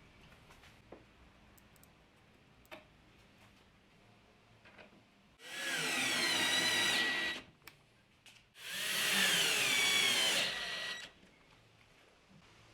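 Power drill run in two bursts of about two seconds each, its motor pitch gliding as it speeds up and takes load, with a few light clicks between.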